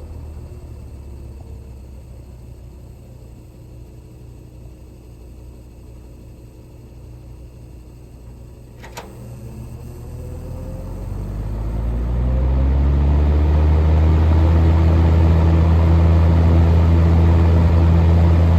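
General Electric W25 box fan's motor starting from cold: after a sharp click, its hum rises in pitch and level as the blades spin up, then settles into a loud, steady hum. Before the click a fainter low hum dies away.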